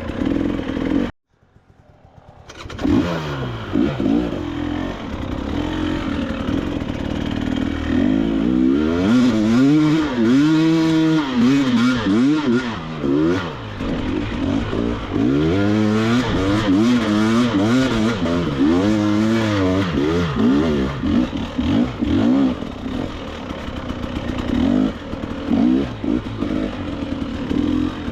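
KTM 300 XC-W two-stroke dirt bike engine revving up and down over and over as it is ridden along the trail, with some clatter. About a second in the sound cuts out briefly, then builds back up.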